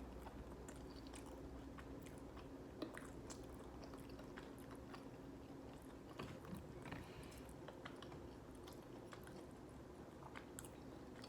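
Faint chewing of chicken McNuggets: soft mouth clicks and wet chewing, with a brief louder tick about three seconds in, over a low steady hum.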